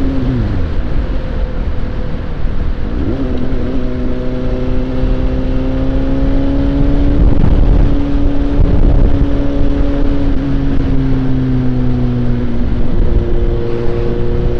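Suzuki GSX-S750's inline-four engine running under way on the road, over a heavy rush of wind noise. The engine note drops right at the start, picks up again about three seconds in and climbs steadily, eases down from about ten seconds, then changes pitch once more near the end.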